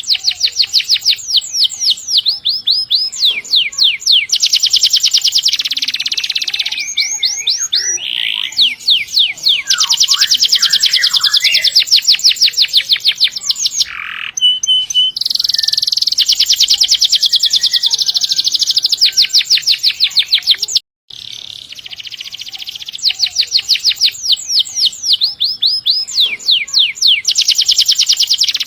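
Domestic canary singing long rolls: fast, even trills of rapidly repeated high notes, one after another with short changes of phrase. A split-second dropout in the sound comes about two-thirds of the way through.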